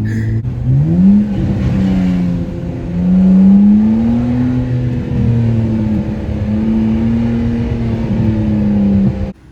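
BMW 328i inline-six engine with the mufflers deleted, revving and pulling under acceleration: its pitch climbs, drops back, climbs again, then holds fairly steady. The sound cuts off suddenly near the end.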